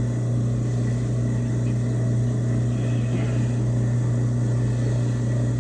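A steady low electric motor hum, unchanging throughout.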